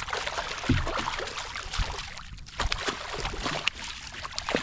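Water splashing and trickling against a kayak hull, with scattered small knocks and clicks of gear being handled.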